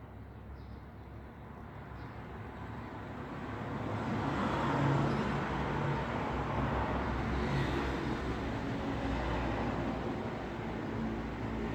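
Road traffic noise: a steady rush and low rumble of cars, swelling as a vehicle comes close about four seconds in and staying loud after.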